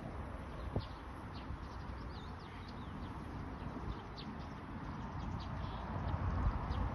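Small birds chirping repeatedly in short high calls over a steady rushing noise with a low rumble that grows louder toward the end. There is a single sharp knock about a second in.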